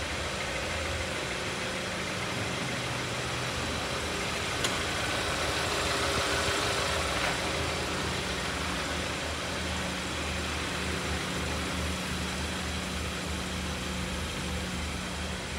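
2014 Hyundai Santa Fe Sport's four-cylinder engine idling steadily under a steady hiss, with one sharp click about four and a half seconds in.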